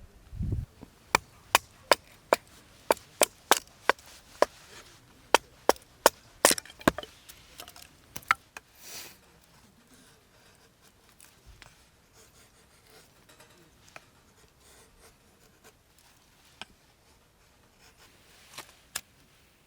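Firewood being chopped or split: a quick run of sharp wooden knocks, about two or three a second, for the first eight seconds or so, then only a few faint scattered ones.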